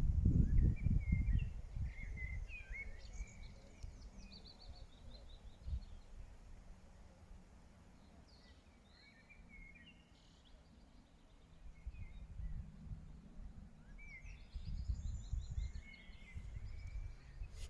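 Woodland songbird singing three short phrases, each with warbled notes ending in a quick trill, over a low rumble that is strongest at the start and again near the end.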